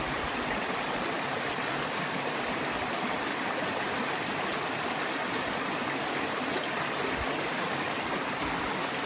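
Creek running steadily, a continuous even rush of water.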